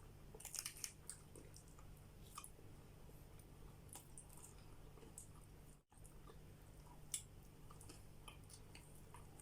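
Faint chewing and small mouth clicks from someone eating, over a low steady hum, with a brief cut-out near the middle.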